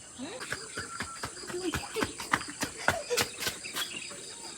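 Insects chirring steadily at a high pitch, with a rapid series of sharp clicks and knocks over it.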